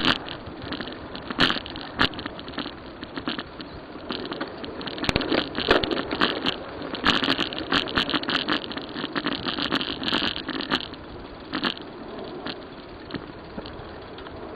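Riding noise from a bicycle: a rushing haze with frequent sharp clicks and rattles, busy through most of the stretch and calmer in the last few seconds.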